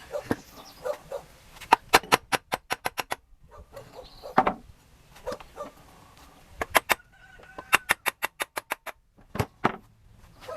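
Hand tools working on engine parts: two quick runs of sharp clicks, about seven a second, with a few heavier knocks between them.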